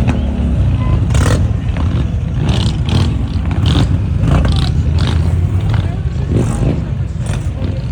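Motorcycle engines running with a deep, steady rumble, with people's voices over them.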